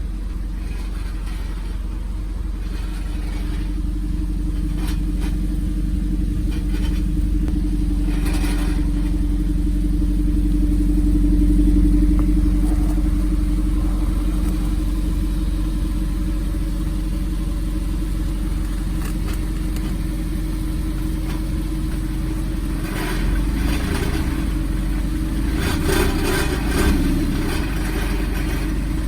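Honda Step WGN engine running, its revs swelling and settling back, with a few seconds of rattling near the end. The rattle comes and goes with engine speed, which the mechanic puts down to something loose inside the muffler's silencer drum.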